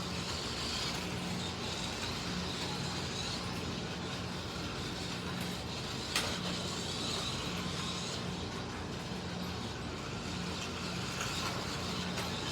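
Slot cars racing round the track: MR Slotcar Cunningham Corvettes and a Scalextric Mercedes 300 SLR, their small electric motors whirring steadily along with the guide braids on the rails. One sharp click about six seconds in.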